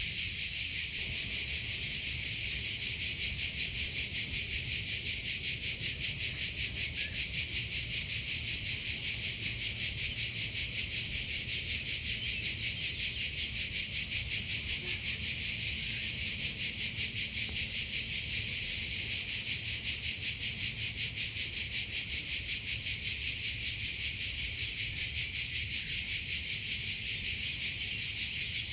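Crickets chirping steadily in a fast, even pulsing rhythm, a high-pitched trill that never pauses.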